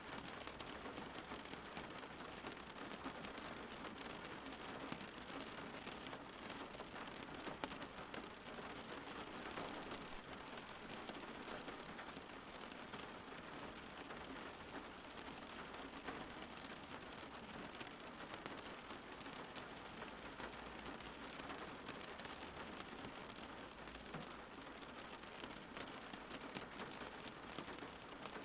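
Steady rain falling and pattering on surfaces, an even dense hiss of drops.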